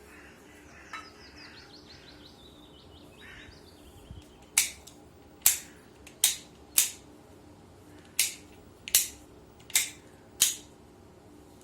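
Eight sharp, short strikes at irregular intervals over the second half, each cutting off quickly.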